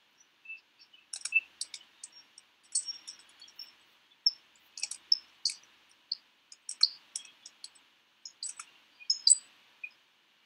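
A bird chirping in irregular clusters of short, high calls.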